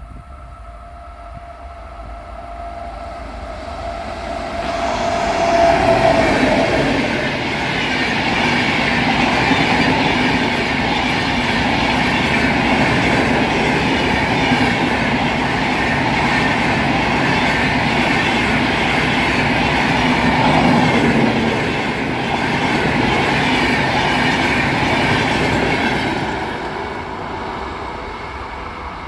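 Indian Railways WAP7 electric locomotive and its express coaches passing at speed: a long horn note while it approaches, dipping in pitch as the locomotive goes by about six seconds in. This is followed by about twenty seconds of steady wheel-and-rail rumble and clatter from the coaches, fading as the train moves away.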